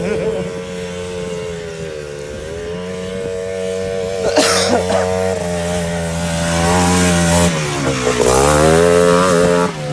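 Quad bike engine running under throttle: the pitch dips and climbs again as it revs, grows louder in the second half and drops back just before the end. A short burst of noise about four and a half seconds in.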